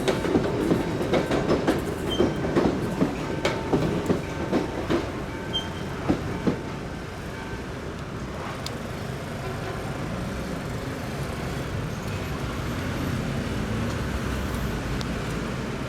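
CSR electric multiple unit passing over a level crossing, its wheels clattering rhythmically. The clatter stops about six and a half seconds in as the train clears, leaving a steady, quieter street hum.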